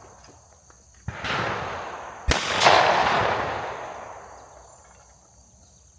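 Two shotgun shots about a second apart, the second louder, each followed by a long echo rolling away. An over-and-under shotgun fires both barrels at a clay target.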